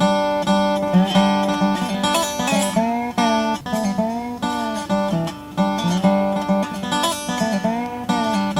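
Dobro resonator guitar played flat on the lap with a metal slide bar: picked notes and chords with sliding, bending pitches and a metallic tone from the resonator.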